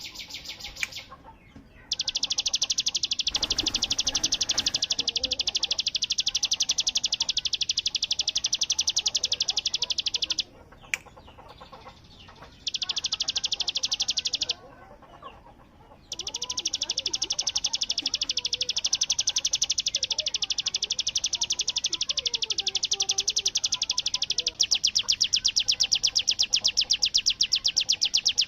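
Ciblek gunung (hill prinia) singing its 'bren' song: long, very rapid, high machine-gun-like trills lasting several seconds each. It sings four runs, with brief pauses about two, eleven and fifteen seconds in. This is a songbird in full, constant song ('gacor').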